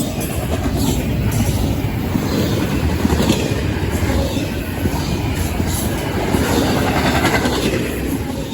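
CSX intermodal freight train rolling past: a steady rumble of steel wheels on rail, with repeated clicks and clatter as the wheels cross the rail joints.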